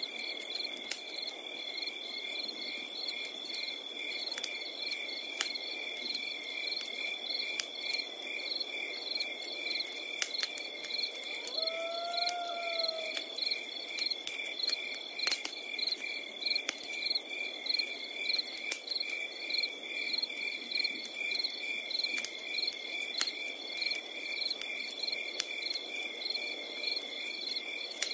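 Crickets chirping in a steady, even pulse, with a campfire crackling in scattered sharp pops. About halfway, a single short call rises and falls once.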